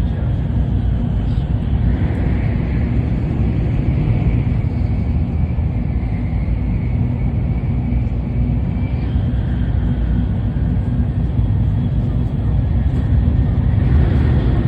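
Tokaido Shinkansen train running, heard inside the passenger car: a steady low rumble of running noise, with a faint high whine for several seconds in the first half.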